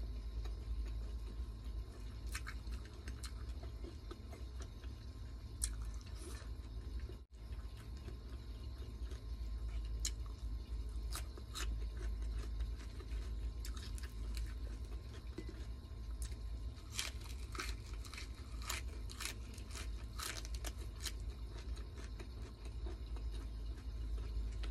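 Close-miked eating sounds: a person chewing and crunching food, with sharp crisp clicks that come thickest about seventeen to twenty-one seconds in, over a steady low hum.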